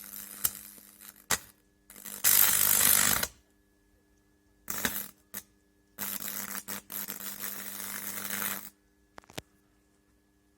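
High-voltage arcing from a microwave-oven transformer at about 2000 volts: several bursts of buzzing crackle, the longest about two and a half seconds near the end, over a steady electrical hum.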